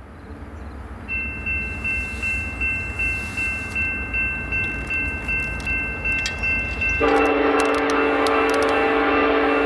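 Approaching diesel freight train rumbling, with a grade-crossing bell dinging about two and a half times a second; about seven seconds in, the locomotive's multi-chime air horn starts sounding a long, loud blast.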